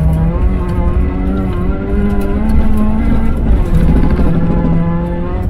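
Rally car engine heard from inside the cabin under hard acceleration. Its pitch climbs over the first two and a half seconds, drops about three and a half seconds in, then holds steady, over a low rumble of tyre and gravel noise.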